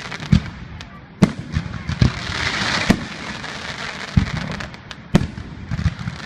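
Aerial fireworks bursting: a run of sharp bangs, about one a second, over a steady crackling hiss of shells going off overhead.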